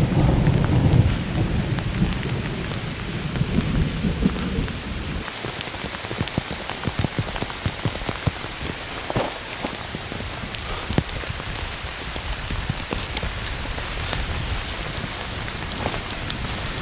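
Heavy rain in a thunderstorm: a low thunder rumble for the first five seconds, then steady rain with many individual drops striking close by.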